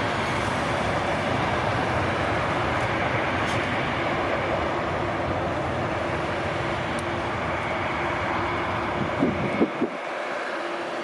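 Jet airliner engines running, a loud steady rumble with a faint steady hum in it; near the end there are a few brief crackles and the deepest part of the rumble drops away.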